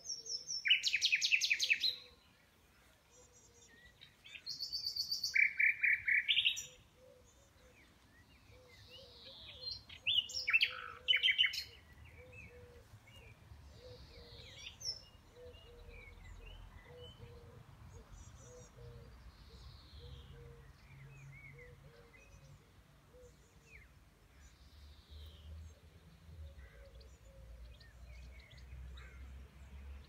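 A songbird sings loudly: three bursts of rapid trilled notes in the first twelve seconds, each about one and a half to two seconds long. Fainter birds keep calling after that, with short downward-sliding notes every few seconds.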